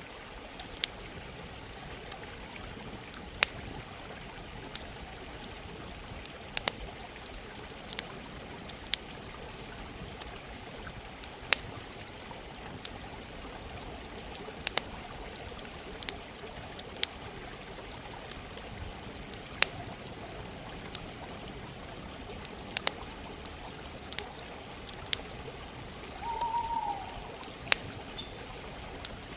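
Campfire crackling, sharp pops every second or two, over the steady rush of a running stream. Near the end a steady high buzz begins and a single short call is heard.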